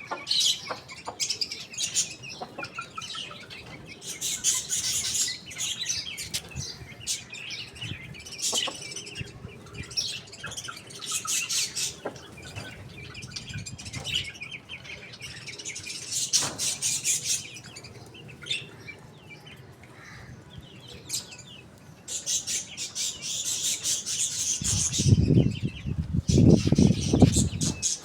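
Small birds chirping and chattering in repeated bursts of rapid high notes, with wings flapping. About three seconds before the end comes a loud low rumbling noise lasting a couple of seconds.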